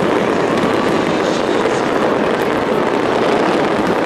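Dense fireworks barrage: many overlapping bursts blending into one loud, steady noise, without distinct single bangs.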